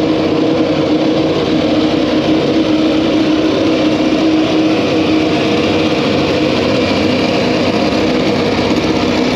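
An engine running loudly at a steady, held speed, its pitch not changing.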